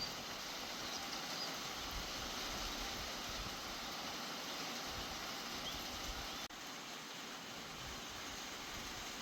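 Steady outdoor background hiss with a few faint, short, high bird chirps. It breaks off for an instant about six and a half seconds in, at a cut, then carries on slightly quieter.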